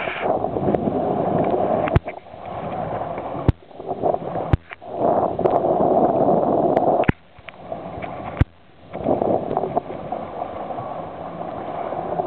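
Jet ski on the water, its engine, water spray and wind making a steady rushing noise, cut by several sharp clicks where the sound drops out for a moment.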